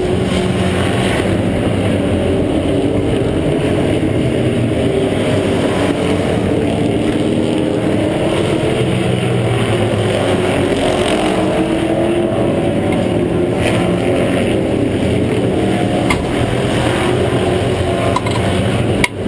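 Pro Truck racing pickup's engine running, heard from an onboard camera inside the cab, its pitch drifting slowly up and down with the throttle. There is a short drop in the sound near the end.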